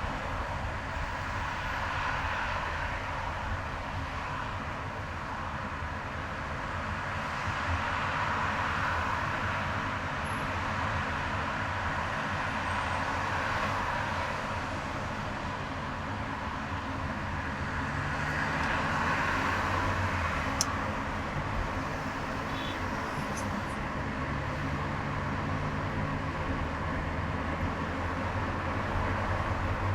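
Car driving on a highway: steady tyre and engine noise with a low hum, swelling and fading several times, with one sharp click about two-thirds of the way through.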